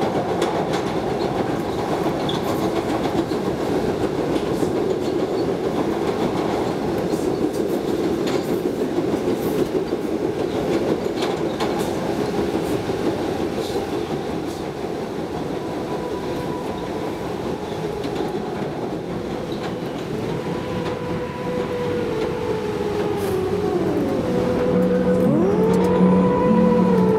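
Subway train running through a tunnel: a steady rumble with scattered clicks from the wheels on the rails. From about two-thirds of the way through, whines glide up and down, and music with a low, stepped line comes in near the end.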